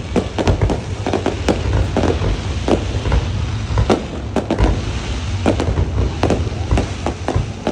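Fireworks going off: many sharp bangs in quick, irregular succession, several a second, over a steady deep rumble.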